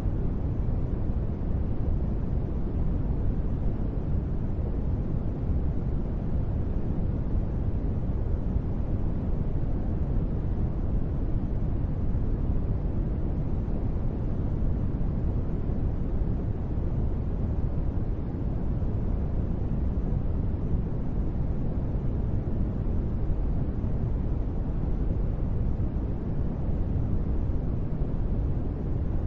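Steady, deep rushing noise, even and unbroken, with its weight in the low end and little hiss: a continuous sleep-noise track.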